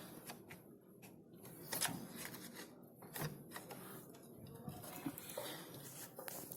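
A few light, scattered metallic clicks and clinks of hand tools and engine parts knocking together, with quiet workshop background between them.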